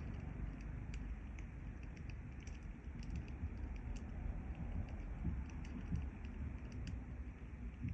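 A cat purring steadily as a low rumble, close to the microphone, with scattered small crackles from a wood fire.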